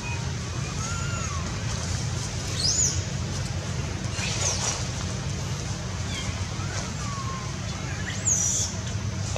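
Outdoor ambience: a steady low rumble with a few short, high-pitched bird chirps over it, the brightest about a third of the way in and near the end.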